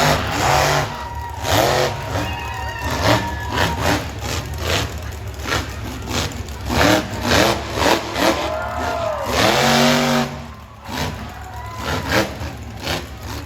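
Monster truck engines revving hard again and again, the pitch climbing and falling in repeated swells, with the loudest long rev about eight to nine and a half seconds in, over a steady low rumble of arena noise.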